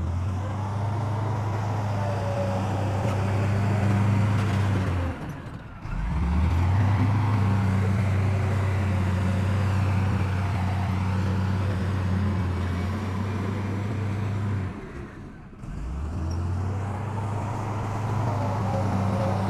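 Heavy diesel earthmoving machinery engines running steadily with a low drone. The drone drops out briefly about five seconds in and again near fifteen seconds, then resumes.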